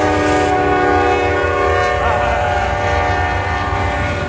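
Norfolk Southern freight locomotive horn sounding one long blast, several notes at once, held steady and cutting off near the end, over the low rumble of the diesel locomotives passing.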